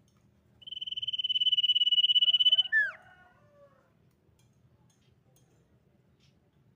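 Common iora giving one long, quickly pulsing whistle held on one high pitch for about two seconds. It ends in a fast downward-slurred note, followed by a few softer lower notes.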